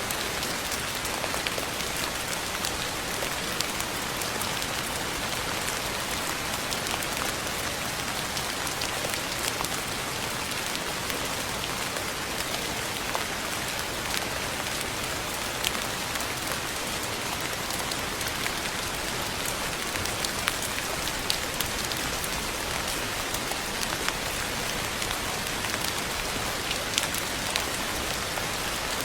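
Steady rain falling on a surface: an even hiss of rainfall with many small drop ticks scattered through it.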